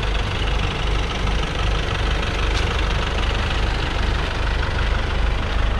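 Nissan Frontier pickup truck's engine idling steadily.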